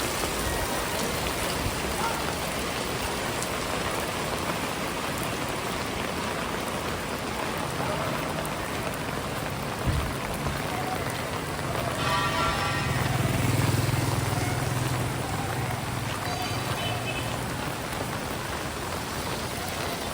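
Heavy tropical rain falling steadily. A motor vehicle's engine swells and passes about halfway through, with a brief pitched tone as it goes by.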